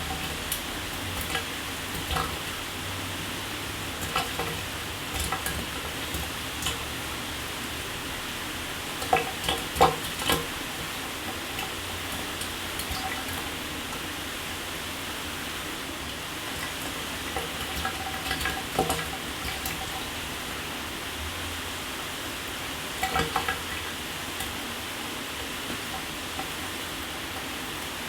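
Shower water running steadily: an even hiss of spray, with irregular louder spatters and drips of water hitting a hard surface, in clusters about 9, 18 and 23 seconds in.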